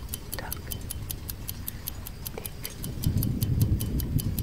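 Clock tick-tock sound effect, rapid even ticking at about four to five ticks a second. A low rumbling noise swells up underneath about three seconds in.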